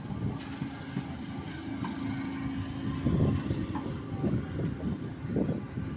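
Indian Railways electric multiple-unit local train passing close by: steady rumble of the coaches with irregular wheel knocks and clatter on the rails, and a steady hum through roughly the first half.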